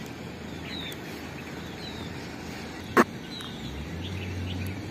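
Outdoor ambience with a steady background hiss and a bird repeating short, falling chirps every second or so. A single sharp click comes about three seconds in, and a low hum joins shortly after.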